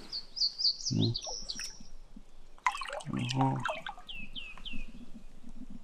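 Small birds chirping in quick series of short descending notes, with water dripping and splashing and a couple of brief grunts from a person about one and three seconds in.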